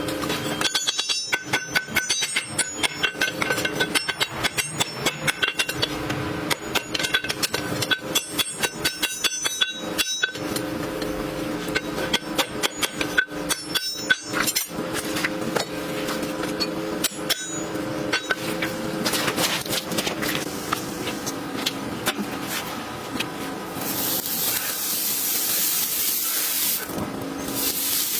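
Farrier's hammer striking a horseshoe on an anvil: rapid, repeated metallic blows with a ringing tone under them. Near the end the hammering gives way to a steady hiss lasting a few seconds.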